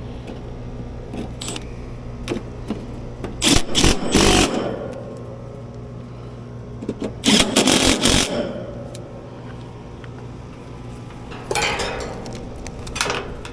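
Outdoor air-conditioning condenser units running with a steady low mechanical hum. Three loud bursts of scuffing noise, about a second each, come a few seconds in, around the middle and near the end.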